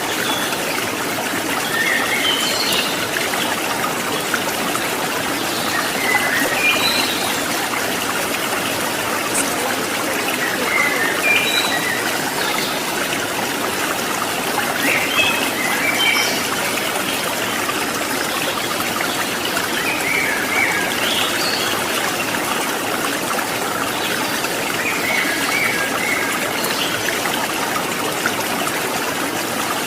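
Flowing water of a forest stream, a steady rushing and trickling, with brief high chirps now and then.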